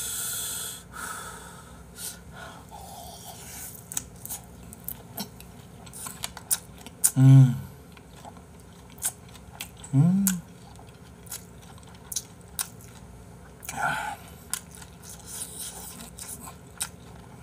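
Close-miked, wet chewing of a large mouthful of perilla-leaf wrap filled with spicy stir-fried webfoot octopus and thin-sliced pork belly, with many small mouth clicks.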